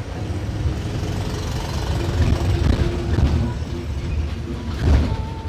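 Mercedes-Benz OF-1721 BlueTec 5 bus diesel engine running, a steady low rumble, with a louder thump about five seconds in.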